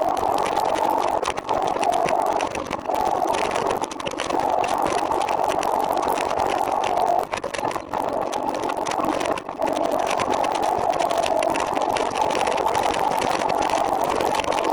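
Trike engine running steadily, with a few brief dips in level.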